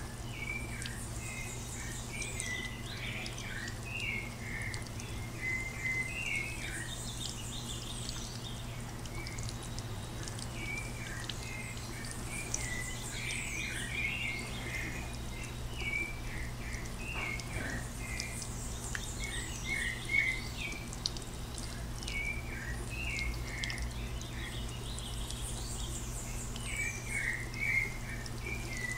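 Birds singing: clusters of short, rapid chirping notes recur every few seconds, with fainter, higher chirps above them, over a steady low hum.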